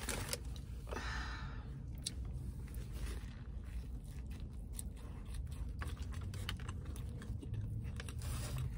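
Close-up mouth sounds of a person biting into and chewing a burger topped with crispy fried onions: many small wet clicks and smacks, over a steady low hum.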